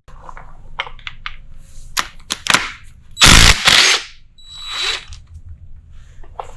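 Scattered clicks of hand tools on metal, then about a second of loud rapid hammering from an impact wrench, loosening a bolt on the timing gears of a Jeep 4.0L inline-six.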